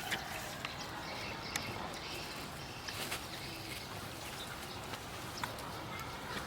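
Outdoor background with faint high chirps and a few scattered light clicks and taps over a steady low hiss.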